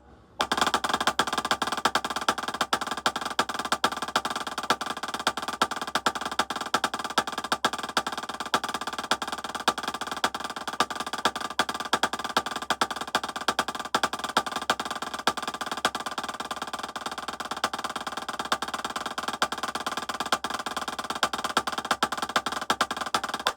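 Snare drum played with sticks in a dense, unbroken stream of strokes: low rolls with louder accent strokes standing out at regular intervals, a rudiment exercise in separating accent height from roll height. It starts about half a second in and stops abruptly at the end.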